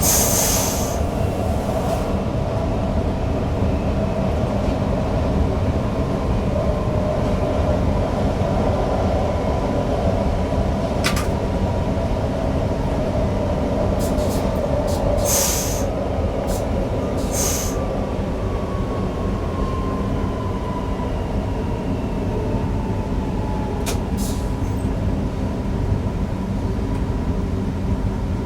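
Newag Impuls EN63 electric multiple unit running along the track, heard from the driver's cab as a steady rolling rumble, with a few brief hisses. A faint whine falls slowly in pitch about two-thirds of the way through.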